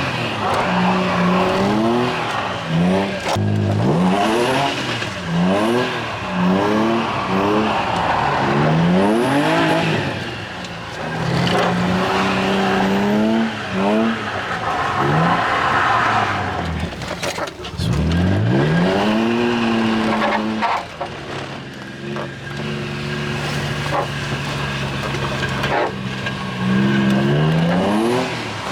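Drift car's engine revving up and falling back again and again as the driver works the throttle through slides, over tyre noise. Near the middle the revs drop deep and climb back, then hold fairly steady for several seconds.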